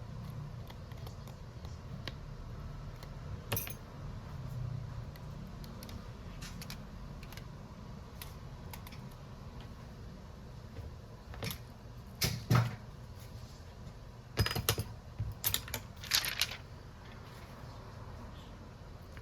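Scattered sharp clicks and clacks of small hard objects, such as tools and phone parts, handled on a workbench: one about three seconds in, a few louder ones past the middle, then a quick run of about six clicks, over a low steady room hum.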